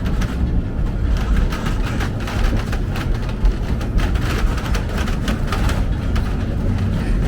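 Calico Railroad narrow-gauge steam train car in motion: a steady rumble of the wheels on the track, with frequent clicks and clacks.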